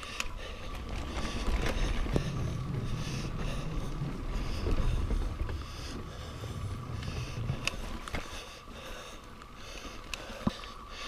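Mountain bike climbing a dirt trail: low rumble of wind and tyres on the microphone, scattered sharp clicks and knocks from the bike, and a regular hiss about every half second to second, the rider's hard breathing on the climb.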